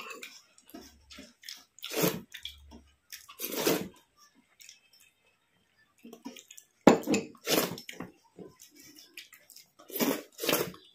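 Close-miked wet eating sounds: several short squishy bursts of chewing and slurping rice with curry, with pauses between them.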